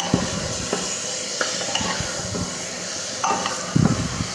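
Chicken and masala sizzling in an open pressure cooker while a plastic spatula stirs, with several short scraping knocks against the pot, the loudest just before the end.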